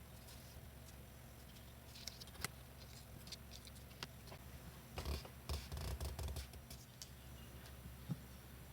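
Paper and card being handled on a work surface: scattered rustles, light taps and clicks, busiest between about five and six and a half seconds in, with a few soft thuds.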